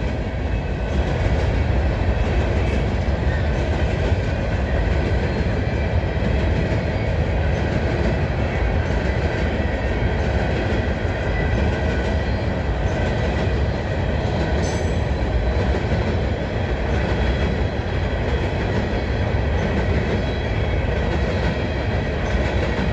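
Freight cars of a coal train rolling steadily past at close range, a continuous rumble of steel wheels on rail with faint thin squealing tones. A single short knock sounds about fifteen seconds in.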